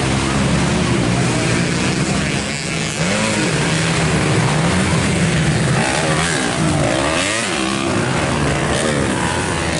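Several racing motorcycle engines running hard and passing, their pitches rising and falling over one another as the riders accelerate and shift.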